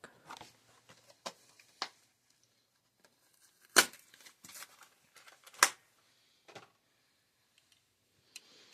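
Hot Wheels blister pack being handled and pried open: scattered plastic and cardboard crinkles and clicks, with two sharp snaps about four and five and a half seconds in.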